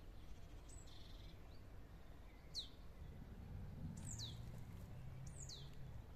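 A bird calling: short, thin, high whistles that drop steeply in pitch, about six times, some in quick pairs, over a faint steady low rumble.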